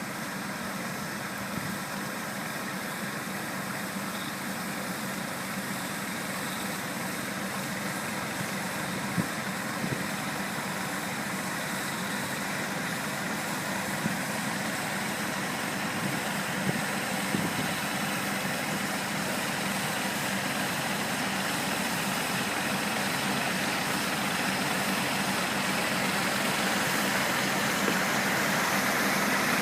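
Tractor engine running steadily, growing gradually louder toward the end, with a few brief knocks along the way.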